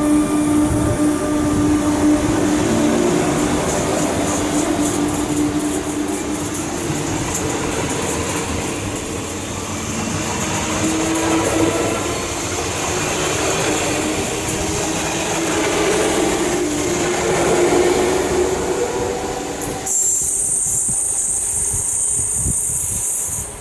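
Double-deck RER electric multiple unit passing close by: steel wheels running over the rails with a steady electric motor whine. About 20 seconds in the sound cuts to a thinner, high hissing sound as another train approaches from a distance.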